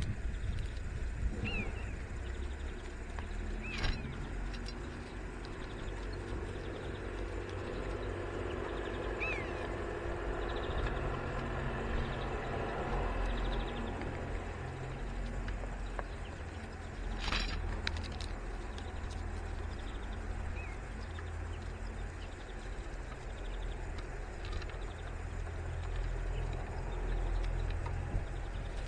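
Outdoor ambience with a steady low wind rumble on the microphone, a few short falling bird chirps scattered through, and two or three single sharp knocks.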